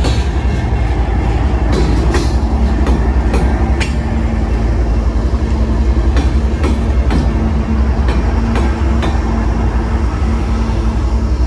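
A freight train's covered hopper cars and two GE diesel locomotives passing close at speed. There is a steady heavy rumble of steel wheels on rail, sharp clicks over rail joints, and a steady low hum that joins about two seconds in.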